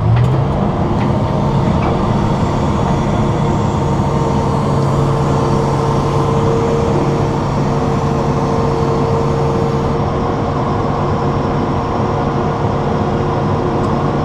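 An engine revs up at the start, then runs steadily at high speed with an even drone.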